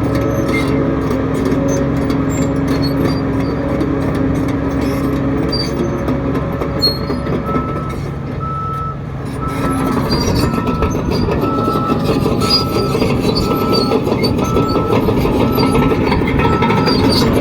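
Diesel engine of heavy earthmoving equipment running steadily, then working harder and louder about ten seconds in. A back-up alarm beeps about once a second through the second half, the sign of a machine reversing.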